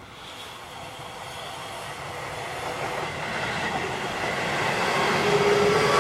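Seibu 20000 series electric train approaching, its rail and wheel noise growing steadily louder, with a steady whine coming in near the end.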